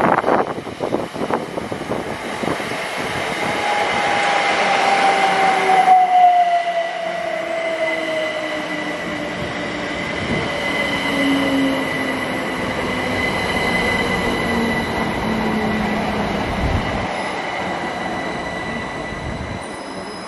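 Train passing through the station. Wheels clatter over the rail joints at first, and the sound builds to its loudest about six seconds in. Under it runs a steady high squeal and a whine that falls slowly in pitch.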